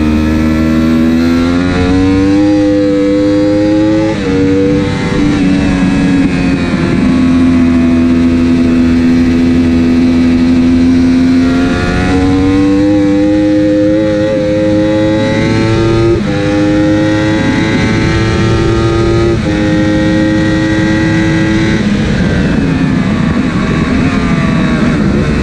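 Superbike race motorcycle engine heard onboard, revving up and down through the gears, its pitch climbing and then jumping at each shift, with wind and road noise underneath.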